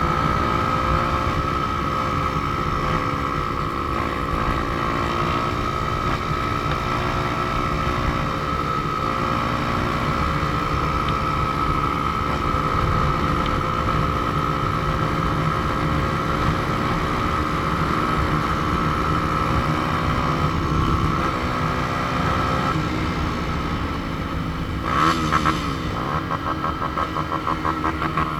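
Motorcycle engine running at a steady cruising speed while riding, with heavy wind rush on the helmet microphone and the engine pitch drifting slowly up and down. Near the end the engine note becomes more uneven, with quick rises and falls.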